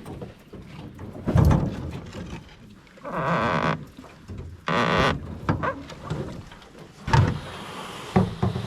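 Knocks on a canoe hull as people climb in and push off, with two short rushing, scraping sounds in the middle.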